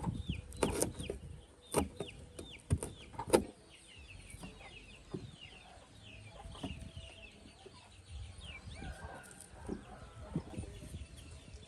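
Birds calling, many short falling chirps one after another, with four sharp knocks in the first three and a half seconds, the last of them the loudest.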